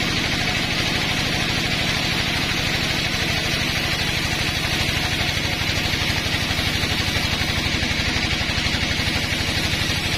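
A sawmill's engine running steadily with a fast low throb and a steady hiss above it.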